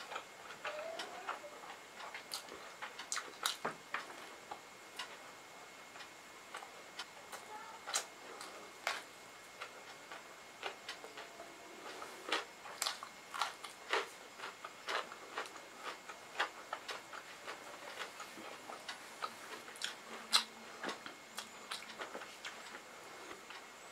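Close-up chewing and mouth sounds of a person eating rice and pakoda curry by hand: irregular sharp clicks and smacks, with fingers working through the food on the plate.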